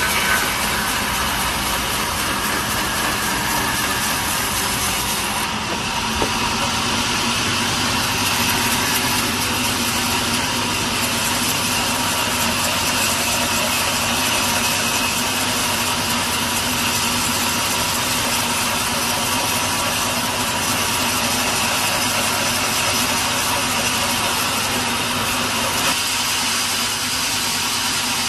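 Sawmill machinery running steadily, a saw and its motor making a continuous loud noise with a faint steady hum.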